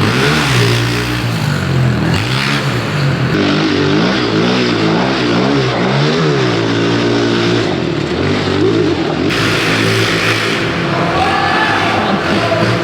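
Pit bike engines revving hard around a dirt track, the pitch climbing and dropping over and over as the riders open the throttle down the straights and shut off into the corners. At times two engines can be heard at once, their pitches crossing.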